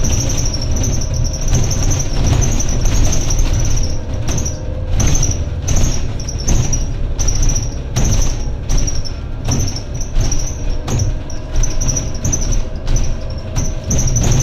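Interior noise of a Scania N280UD compressed-biogas double-decker bus under way: a steady low engine and road rumble inside the cabin, with a high whine and squeaks that come and go through the middle.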